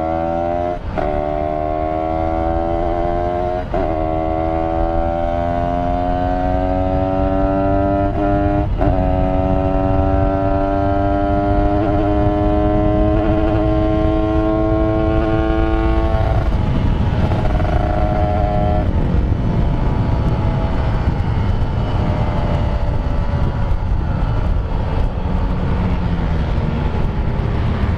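Two-stroke Kawasaki Ninja 150RR motorcycle engine accelerating under way: the note climbs and drops sharply with each upshift, about a second in, near four seconds and near nine seconds. After about sixteen seconds the engine note fades under a steady rushing noise.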